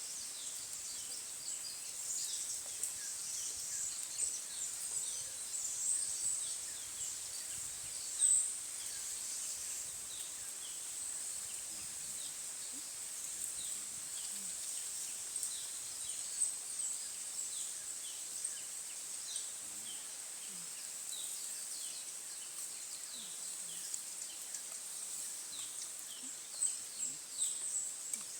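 Forest ambience: a steady high insect drone under many short, scattered bird chirps, one of them louder about eight seconds in.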